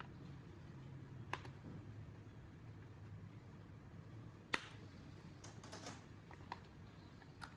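A few scattered sharp clicks and taps of small hard objects, the loudest about four and a half seconds in and a quick cluster just after, over a faint low hum.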